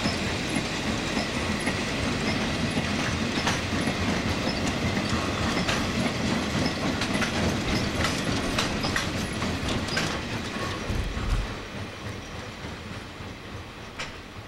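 Wamu 80000 two-axle covered freight wagons rolling past, wheels clacking irregularly over rail joints. The rolling noise fades away about eleven seconds in, with a low thump as it drops.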